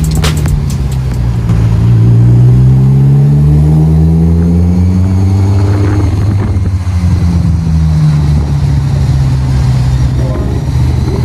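Car engine accelerating, its pitch rising steadily for about five seconds, then running again with a slowly falling pitch over the last few seconds.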